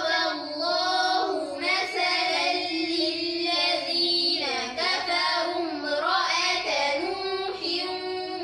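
Children's voices chanting Quran recitation in a melodic tajweed style, repeating the reciter's phrase after him. The chant runs as one continuous line whose pitch rises and falls.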